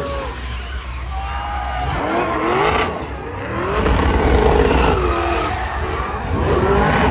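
Car engine revving hard, its pitch rising and falling again and again over a deep rumble, with tyre noise typical of drifting or burnouts.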